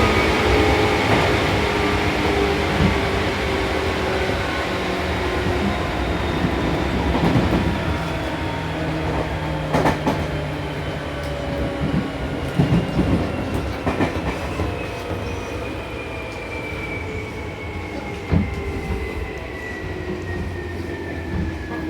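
Seibu New 2000 series electric train slowing down: the traction motor and gear whine glides steadily lower in pitch over the running rumble, with a few wheel knocks over rail joints as it brakes into a station.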